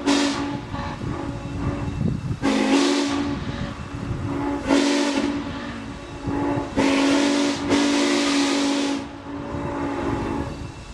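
Steam whistle of the Norfolk & Western 611, a 4-8-4 J-class steam locomotive, blown in four blasts as the 'ghost whistle', the last and longest lasting about two seconds, with steam hissing.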